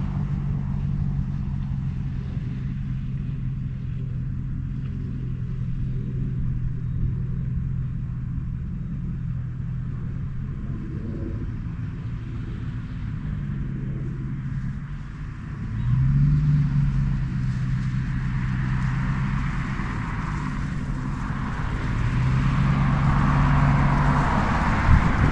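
Dodge Ram's 5.7 L Hemi V8 running steadily. The engine note rises about two-thirds of the way through and again near the end.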